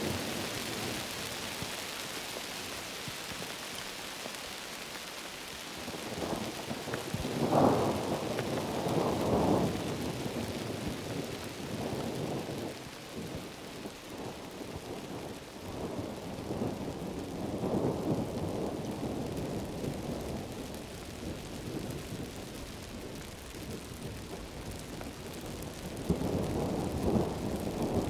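Heavy rain hissing steadily, with thunder rumbling in several rolling swells; the strongest comes about a quarter of the way in and another near the end.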